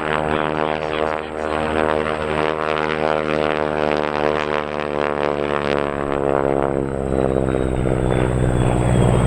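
Radial-engine warbird flying past with a deep, steady propeller drone. The engine's pitch sinks through the second half and the sound grows louder near the end.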